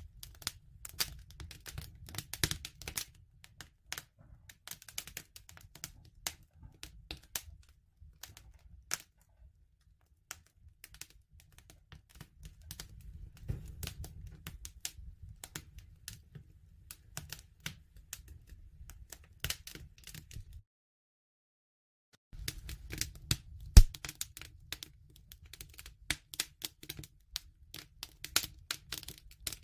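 Wood fire crackling: dense, irregular snaps and pops over a low rumble, with one loud pop about 24 seconds in. The sound cuts out completely for under two seconds about 21 seconds in.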